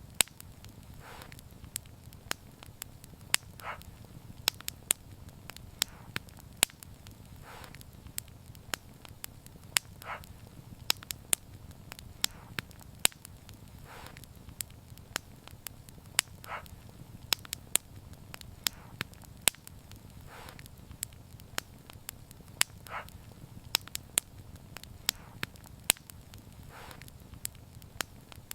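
Wood fire crackling: sharp, irregular pops over a low steady rumble, with a soft, short hiss every few seconds.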